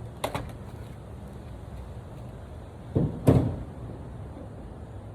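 A few sharp clicks, then a louder double knock about three seconds in, as heavy gear is handled and set down, over a steady low hum.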